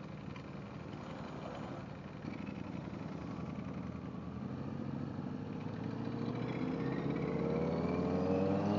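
Motorcycle engine running and drawing closer, growing steadily louder and rising in pitch over the last few seconds.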